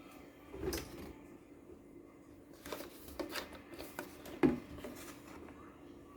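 Small household objects being handled: a few soft clicks and knocks with some rubbing. The sharpest knock comes about four and a half seconds in.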